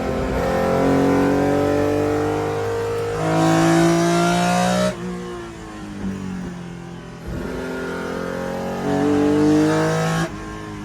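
BMW M1 race car's straight-six engine pulling hard under acceleration twice, its pitch climbing for several seconds each time. Each pull cuts off sharply, once near the middle and once near the end, and between the pulls the engine note falls away.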